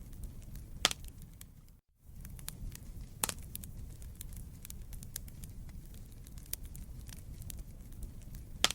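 Wood fire crackling in a fireplace: a steady low rumble of burning with frequent small snaps and a few louder pops, the loudest near the very end. The sound cuts out completely for a moment just before two seconds in.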